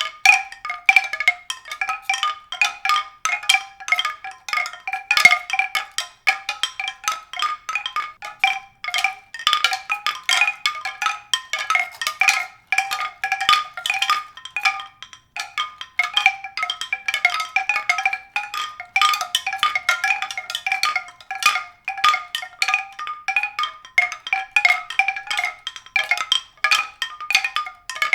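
Tuned percussion struck in a quick, continuous stream of short, bright notes that keep returning to a few pitches.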